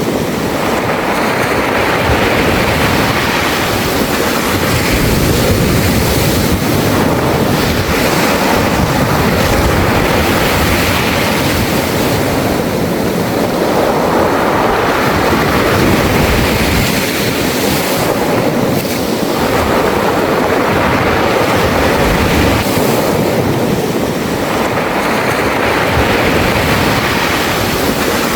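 Sea waves washing onto a beach of smooth round pebbles, the surf swelling and easing every four to five seconds as each wave comes in and drags back over the stones.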